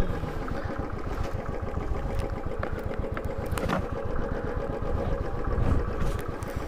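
Motorcycle engine running at low revs with a steady, rapid low pulsing.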